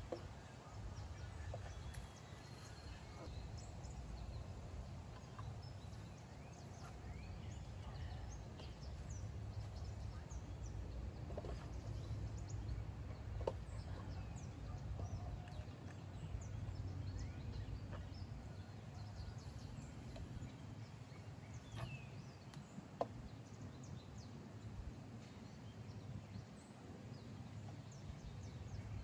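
Outdoor ambience: scattered faint bird chirps over a steady low rumble, with a couple of sharp clicks, one around the middle and one about three quarters of the way in.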